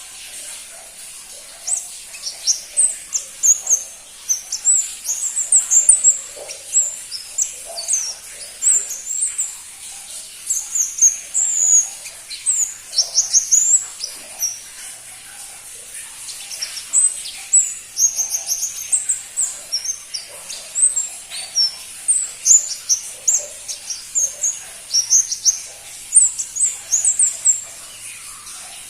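Crimson-breasted flowerpecker (pentis pelangi) calling: runs of very short, high, thin chirps in quick succession, broken by brief pauses.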